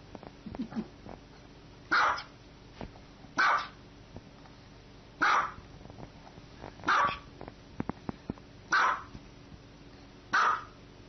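Small white dog barking six times, one single bark every one and a half to two seconds.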